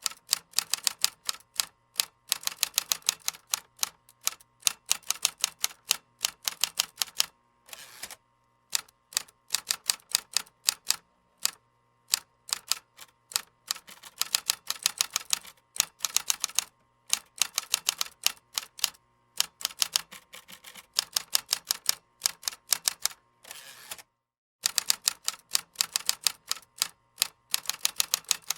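Computer keyboard typing: runs of rapid key clicks, broken by short pauses of a second or less between bursts.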